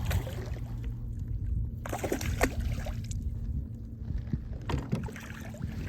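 Water sloshing against a kayak with a steady low rumble, and a few sharp clicks and knocks about two seconds in and again near the end.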